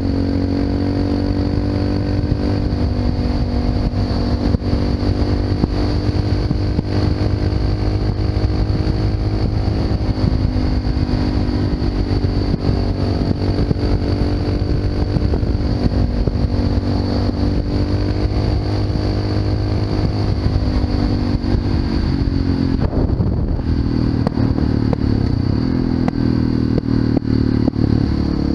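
Honda FMX 650's single-cylinder engine running through an Arrow aftermarket exhaust while riding, the engine note rising and easing gently with the throttle. About three-quarters of the way through, the note dips and wavers, then settles again.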